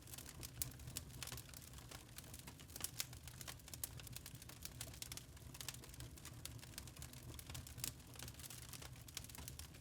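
Fireplace fire crackling, with many irregular small pops and snaps over a low steady rumble.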